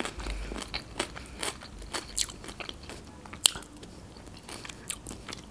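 Close-miked chewing of dolma (stuffed grape leaves), a run of wet mouth clicks and smacks with a sharper click about three and a half seconds in.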